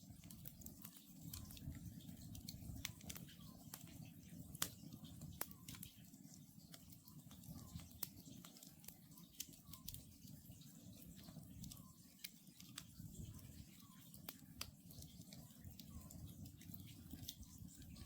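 Wood campfire crackling, with sharp irregular pops over a low steady rumble of burning. Behind it, a faint Oriental scops owl gives short low calls about once a second.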